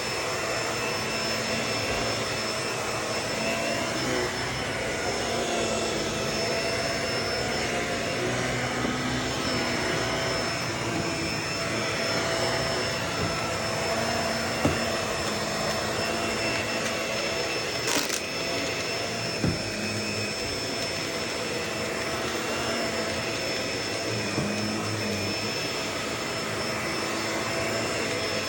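Vacuum cleaner running steadily with a constant motor whine. A few sharp clicks about halfway through, as crunchy debris is sucked up.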